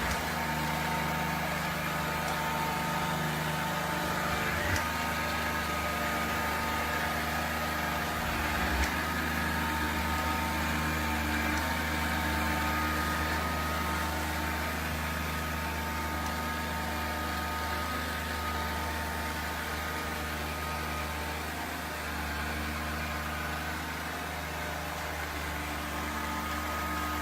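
Robot vacuum cleaner running: a steady motor hum and whine, with a couple of light knocks about five and nine seconds in.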